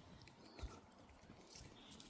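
Near silence, with a faint low thump about half a second in and a few faint short high chirps.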